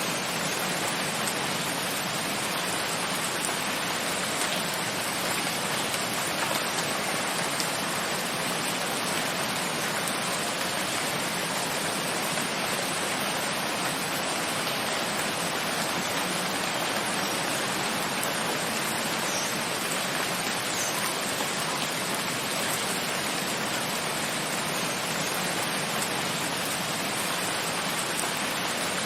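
Steady rain falling, a dense even hiss of drops on surfaces with a few faint individual drop ticks.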